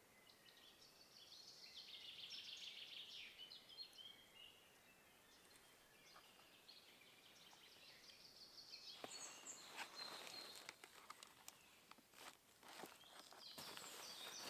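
Faint songbird song, a quick trilled phrase, in the first few seconds. From about nine seconds in come scattered sharp clicks and rustling.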